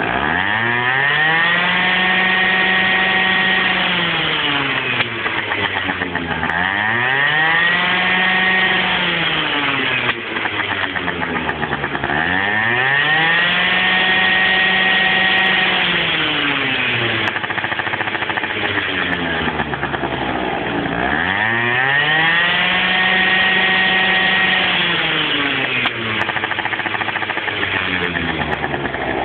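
Small scooter engine revved hard again and again: about six times the pitch climbs quickly, holds high for a few seconds, then falls back toward idle before the next rev.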